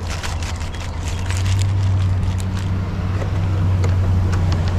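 A steady low motor hum, louder from about a second and a half in, with small clicks and rattles of handled items in the first second or so.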